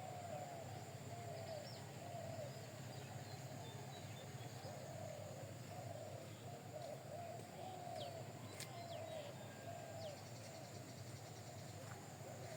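Birds cooing over and over in short, low, rounded calls, with faint higher chirps now and then, over a steady low hum.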